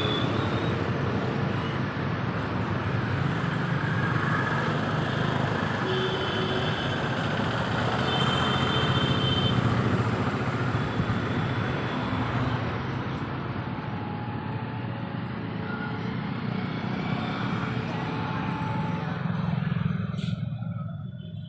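Steady road traffic noise, a low engine rumble with tyre and road hiss, falling away in the last second.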